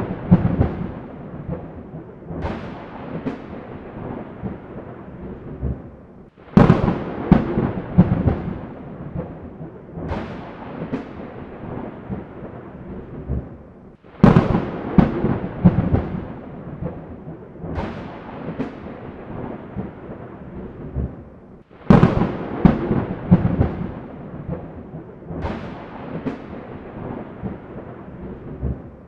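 Thunderstorm: sudden thunder crashes, the loudest coming about every seven to eight seconds, each followed by a few smaller cracks and a rumble that dies away, over a steady hiss of rain.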